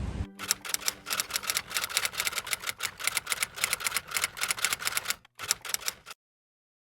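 Rapid typing clicks, several a second, like a typewriter or keyboard, with a short break near the end before cutting off suddenly.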